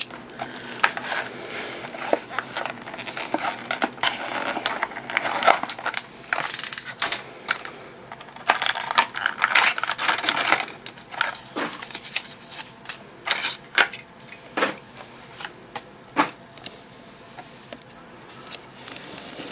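Plastic blister packaging of a die-cast toy car being handled and opened by hand: irregular crinkling, crackling and clicking, busiest between about six and eleven seconds in and thinning out near the end.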